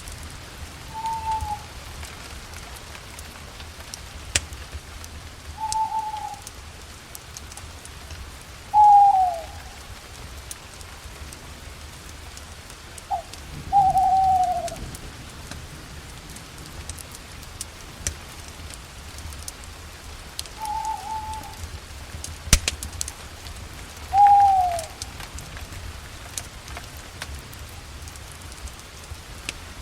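A bird calling every few seconds, with short whistled notes, several sliding downward, over the steady crackle of a campfire with scattered sharp pops.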